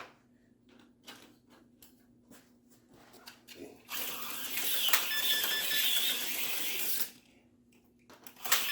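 A few light clicks, then an HO-scale Porsche 962 slot car runs on its plastic track with a steady, high motor whir for about three seconds. It stops, then starts up again with a click near the end.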